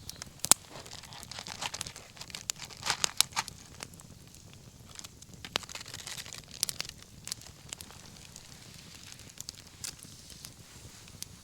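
Wood bonfire crackling, with irregular sharp pops, a few louder than the rest, over a faint hiss.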